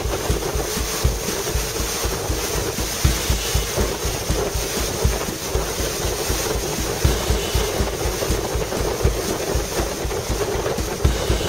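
Motorboat engine running steadily at speed on open water, with wind buffeting the microphone in rapid, irregular low thumps.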